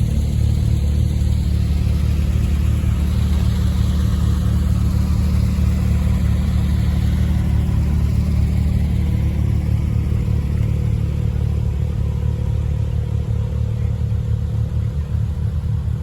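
Porsche 911 Carrera S (997) flat-six engine running while the car drives along at a fairly steady pace, with a constant low drone and road noise.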